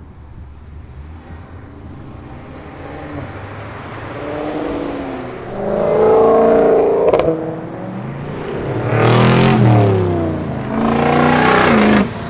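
Car engine revved hard three times, each rev climbing in pitch before dropping off. There is a sharp pop at the top of the first rev, and the last rev cuts off suddenly.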